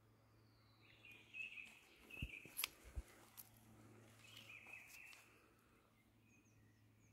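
Faint birdsong: a short falling whistle, then chirping phrases about a second in and again near five seconds, with a few sharp clicks between them.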